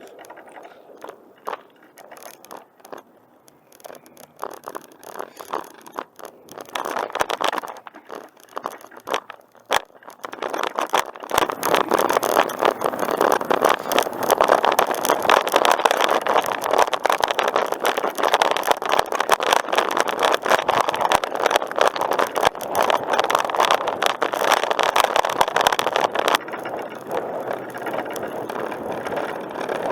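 Riding noise of a bicycle rolling along a paved trail, with tyre and rattle noise. It is quiet with scattered ticks at first, grows much louder about a third of the way in, and eases a little near the end.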